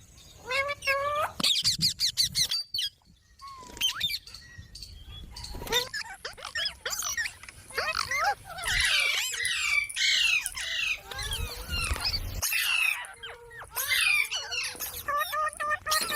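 Pet green parakeet calling: a run of short, sharp squawks and chirps with quick pitch glides, sparse at first and coming thick and fast from about five seconds in.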